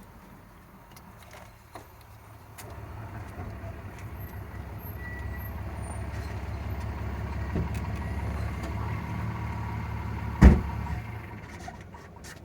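A passing road vehicle: a low rumble that builds over several seconds and fades near the end, with one sharp thump about ten seconds in.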